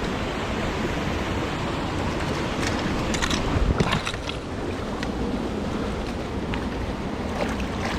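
Steady rush of a mountain creek's running water, with a few short, sharp knocks or splashes about three to four seconds in.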